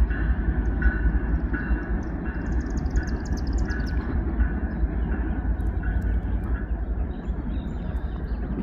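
Norfolk Southern track geometry train rolling away down the line: a steady low rumble that eases toward the end. A faint tone repeats about every 0.7 s until about two-thirds of the way through, and a brief run of high chirps comes about three seconds in.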